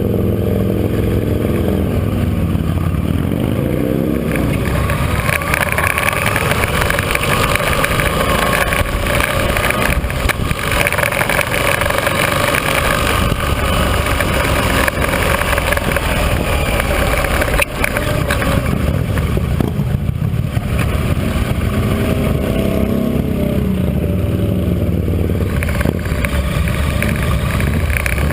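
Motorcycle engine running at low street speed, its pitch rising and falling several times as it revs up and eases off, over a steady low rumble. A single sharp click sounds about two-thirds of the way through.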